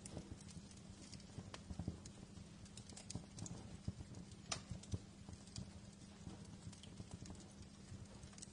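Wood fire crackling in a fireplace: irregular sharp pops and snaps over a low rumble of burning logs.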